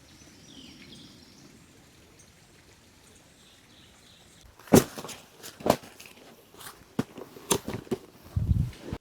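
Quiet outdoor ambience with a few faint bird chirps, then, from about halfway, a run of sharp knocks and clicks and a low thump near the end.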